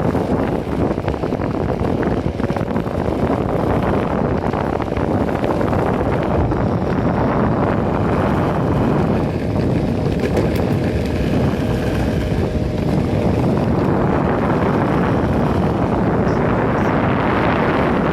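Wind buffeting a phone's microphone while riding an electric skateboard: a steady, dense rumble with no letup.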